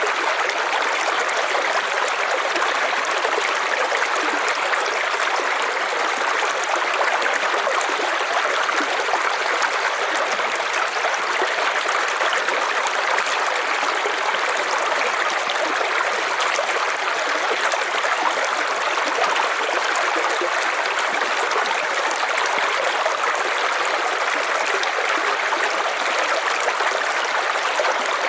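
River water flowing steadily over stones, a continuous even rush with a light trickle and gurgle.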